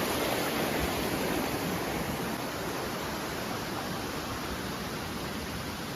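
Mountain stream rushing over rocks, a steady wash of water noise.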